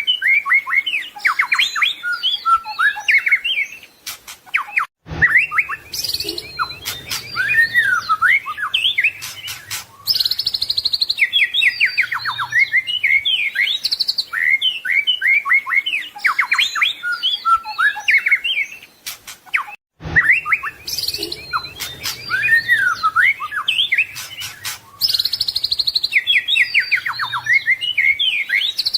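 White-rumped shama (murai batu) singing a loud, continuous song of varied whistles, rapid trills, sliding notes and harsh chattering phrases, with sharp clicks among them. It is the full repertoire of mimicked phrases that keepers use as a master recording for training songbirds. The same passage repeats about every 15 seconds, each repeat beginning after a brief dropout.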